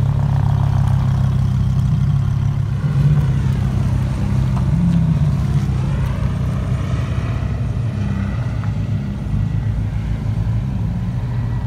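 Supercar engines running at low speed: a steady low rumble, with one engine's pitch dipping and then climbing back midway.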